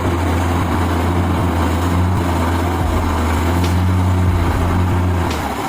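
Heavy truck diesel engine running steadily with a low drone, which breaks up just before the end.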